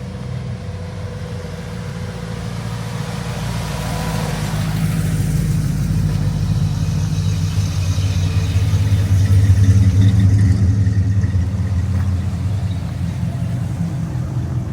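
A car engine rumbling at low speed, growing louder to a peak about ten seconds in and then easing off, as a car drives slowly past close by.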